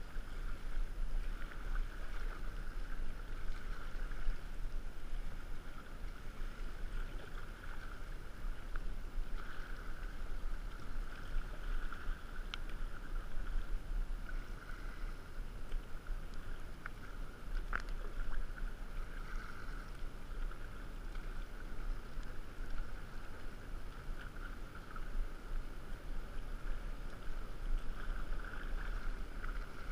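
Colorado River whitewater rushing steadily around a kayak, with two sharp clicks, about twelve and eighteen seconds in.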